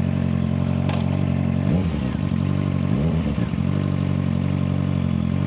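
Suzuki GSX-R600's inline-four engine running steadily, its pitch rising and falling briefly twice in the middle, with a short click about a second in.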